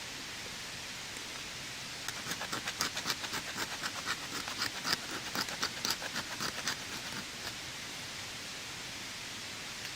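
Steady rain hiss. In the middle, a few seconds of quick, sharp crackles and ticks stand out above it.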